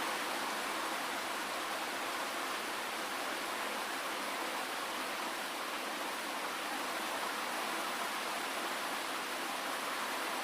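Steady rain falling: an even, unbroken hiss with no single drops or other sounds standing out, and almost no low rumble.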